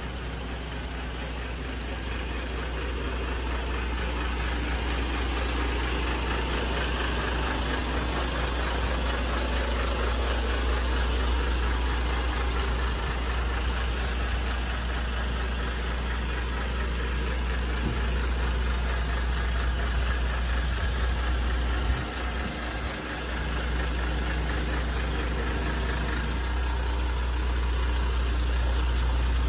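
Diesel engine of a FAW J6P 480 hp tractor truck running steadily with a deep hum, with one brief knock about two-thirds of the way through.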